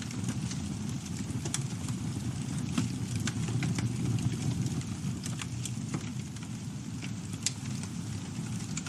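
Campfire burning with a steady low rumble of flames and irregular sharp crackles and pops from the burning wood.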